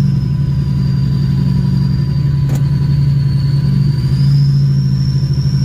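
Diesel pickup truck's engine running steadily under load as the truck pushes through snow drifts, with a high whistle that dips and then rises again.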